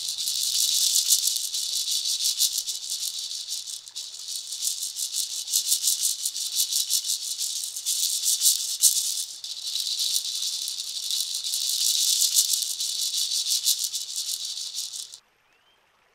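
Hand percussion rattle shaken steadily in swells as a live water sound effect for the river's swirling current; it is a dense, high, hissing shake that stops abruptly about a second before the end.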